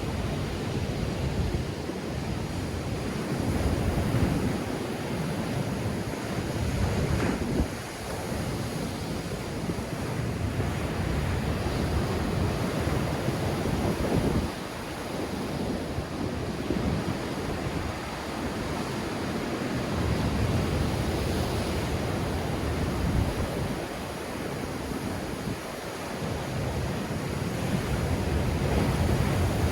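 Waves breaking on the Black Sea shore in strong wind, a steady surf that swells and eases every few seconds, with wind buffeting the microphone.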